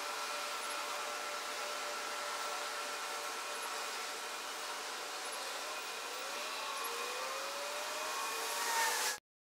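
Songbird song altered by an audio effect: slow gliding and held whistled tones over a steady hiss. It cuts off abruptly to silence near the end.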